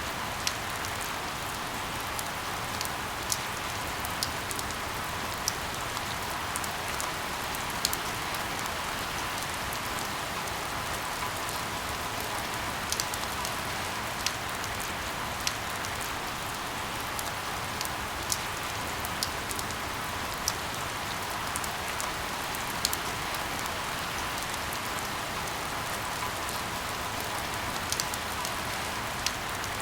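Steady heavy rain falling on a surface, a constant hiss with sharp individual drop ticks scattered throughout.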